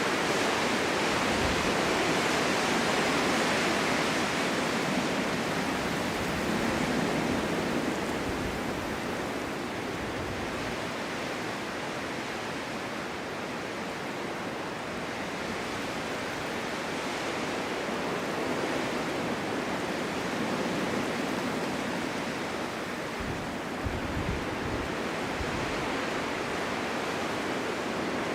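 Snowstorm wind blowing through a forest, a steady rushing that swells and eases in slow gusts, with a few brief low rumbles near the end.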